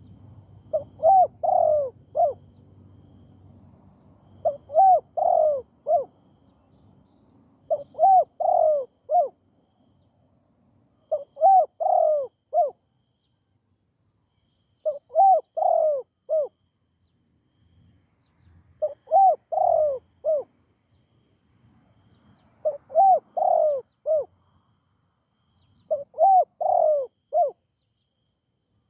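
Spotted dove cooing, a phrase of four or five coos repeated about every three and a half seconds, eight times over.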